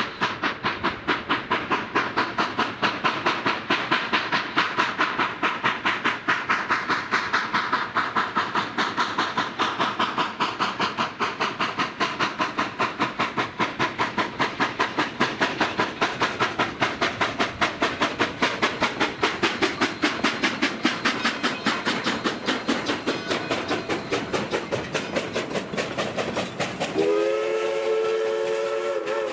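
Narrow-gauge steam locomotive working a train, its exhaust chuffing in a quick, steady beat. Near the end its steam whistle sounds a long blast of several tones together.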